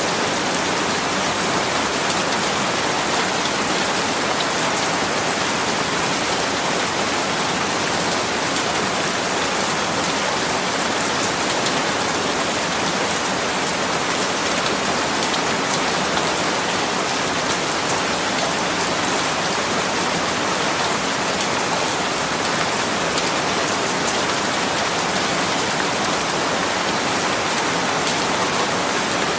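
Steady rain falling, a dense even hiss with many fine drops pattering on surfaces.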